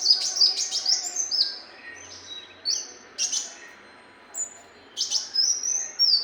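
Brown-throated sunbird (kolibri muncang) singing: quick clusters of high, thin whistled notes, many sliding down in pitch, repeated several times with short pauses between.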